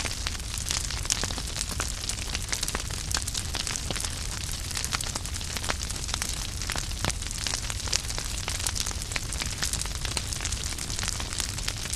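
Wood fire burning in a fireplace, the logs crackling and popping constantly over a low steady rumble of the flames.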